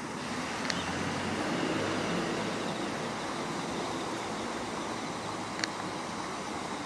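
Steady outdoor background rumble and hiss, with two short high chirps, one about a second in and one near the end.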